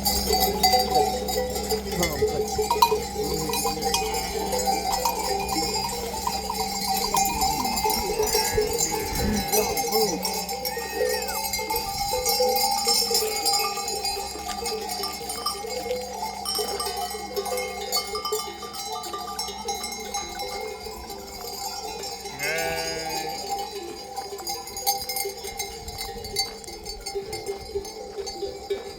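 Bells on a flock of sheep clinking and ringing steadily, with scattered bleats and one clear bleat about three quarters through.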